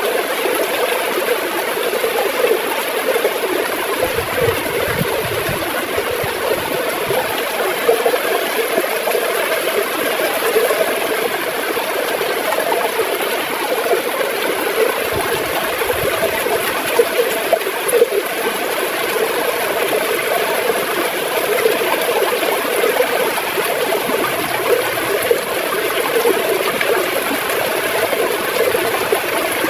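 River water gurgling steadily, a continuous bubbling wash.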